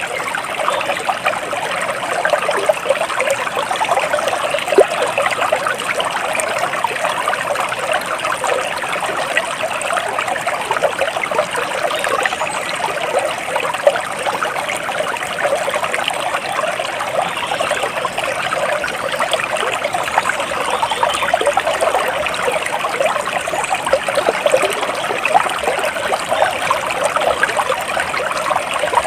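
Flowing water trickling and bubbling steadily, like a small stream.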